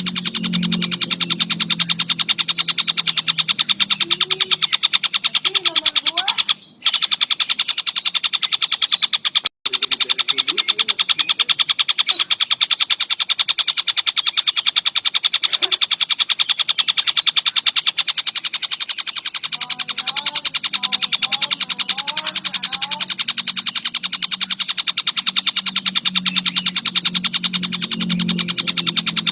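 Collared kingfisher (tengkek buto) calling in a fast, unbroken chattering rattle, loud and dense. It cuts out briefly twice, around seven and ten seconds in.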